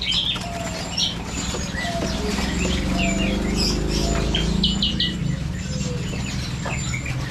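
Many caged songbirds chirping and calling at once: short, high chirps and whistles, overlapping and irregular, over a steady low rumble.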